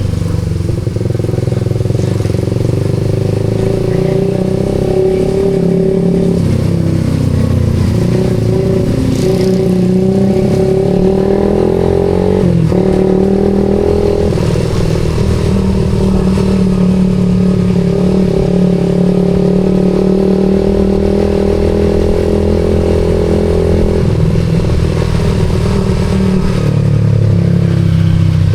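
Suzuki GSX-R150's single-cylinder engine running through an aftermarket SARP exhaust while riding. The pitch shifts a few times as the revs change, with a brief dip near the middle.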